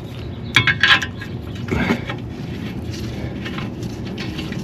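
A few sharp metallic clinks about half a second in, then another knock near two seconds: bolts and hand tools being handled while the starter's mounting bolts are threaded in.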